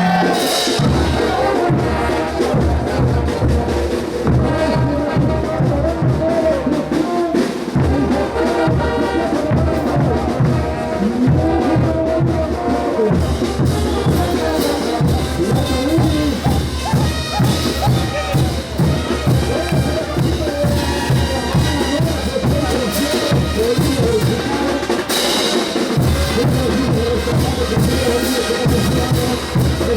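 Bolivian brass band playing Ch'uta dance music: trumpets and trombones carry the melody over a steady bass-drum beat, with cymbal crashes near the start and again late on.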